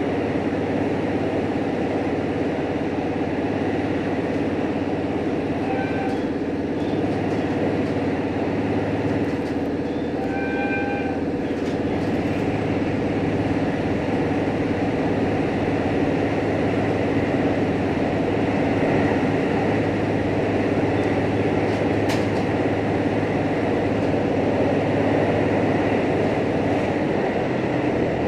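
Steady running noise inside a JR H100 diesel-electric railcar under way: the drone of the engine and traction motors mixed with wheel and rail noise. A brief high tone sounds twice over it.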